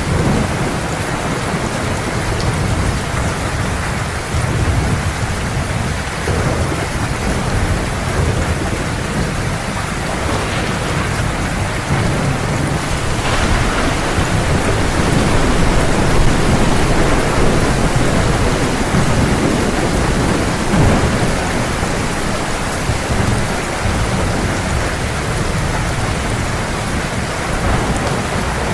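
Heavy rain pouring steadily, with thunder rumbling low underneath throughout. The storm swells louder for several seconds midway.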